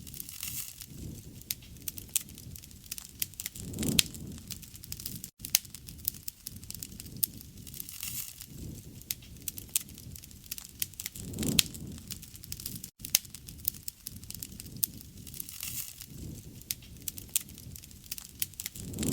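Wood fire crackling, with many sharp pops and snaps and a low rushing swell about every four seconds.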